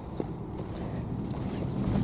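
Wind rumbling on the microphone, growing steadily louder, with one faint knock shortly after the start.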